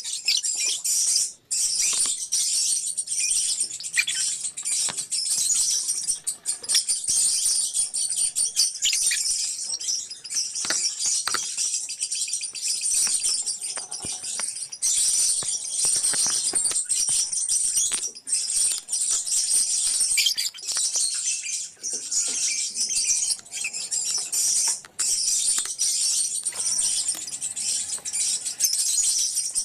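A colony of lovebirds chirping and chattering together: a dense, shrill, high-pitched chatter that runs on without let-up.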